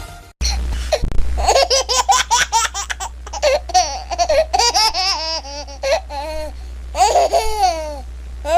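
A baby laughing in quick repeated bursts of giggles and squeals, with a steady low hum underneath.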